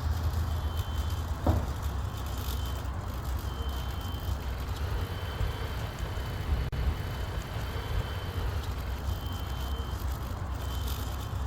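Steady low outdoor rumble, with a faint thin high tone coming and going in stretches of a second or two and a single soft knock about a second and a half in.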